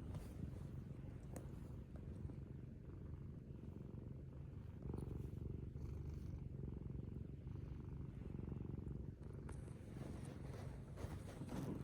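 Domestic cat purring steadily, a low continuous rumble with a fast even flutter: a relaxed, drowsy cat settling into sleep.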